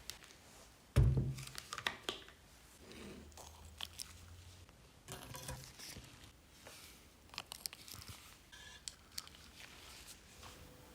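Workshop handling noise: a heavy thump about a second in, then scattered knocks, clicks and short scraping sounds as parts and tools are handled.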